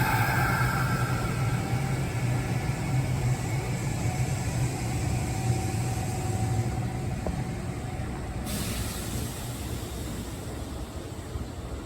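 Kintetsu electric train running on the track, its low rumble slowly fading away, with a faint whine near the start. A hiss comes in about eight and a half seconds in.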